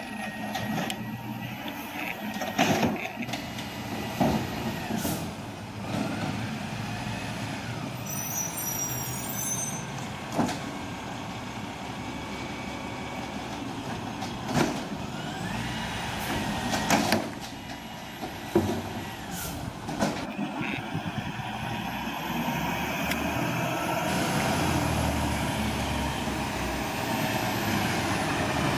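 Recycling truck working: its diesel engine runs steadily under rising and falling whines, with sharp hisses and bangs every few seconds. The engine gets louder about two-thirds of the way through.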